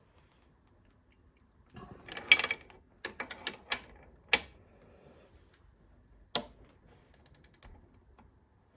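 Hand tools working on an engine: a socket ratchet and metal tools clink and clack in a handful of sharp hits, with a short quick run of ratchet clicks near the end, as a bolt is tightened the further 90 degrees after its 50 Nm torque.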